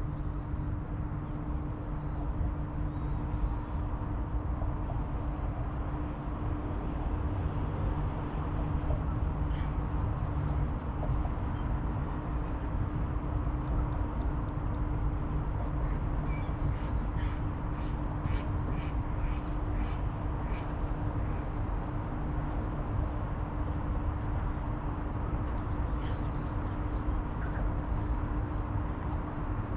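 Outdoor riverside ambience: a steady low rumble under a faint constant hum, with a run of short bird calls, squawks, about halfway through.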